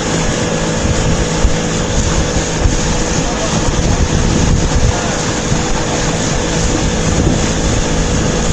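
A boat's engine running steadily underway, with wind noise on the microphone.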